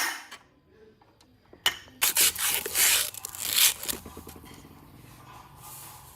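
Scraping and knocking on metal parts during hands-on restoration work: a sharp knock at the start and another under two seconds in, then about two seconds of loud scraping, fading to faint ticking.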